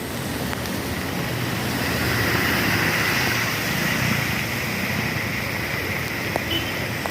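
Street traffic on a rain-wet road: vehicle engines and steady tyre and road noise, swelling as a vehicle passes a couple of seconds in and easing again.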